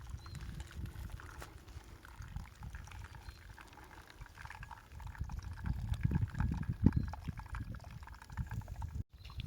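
Water being handled while brewing filter coffee: liquid pouring and bubbling, with irregular knocks and bumps that are busiest about five to seven seconds in. The sound breaks off abruptly near the end.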